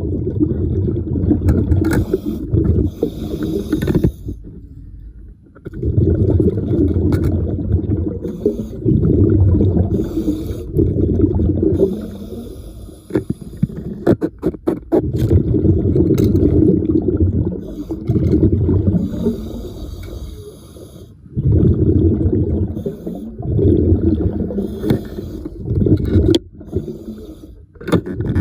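A diver breathing underwater through an air regulator: long rumbling bursts of exhaled bubbles alternate with shorter, fainter hissing breaths, roughly every few seconds.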